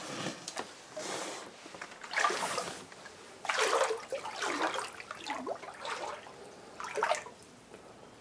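Standing floodwater in a basement splashing and sloshing in about eight irregular bursts, as someone wades through it.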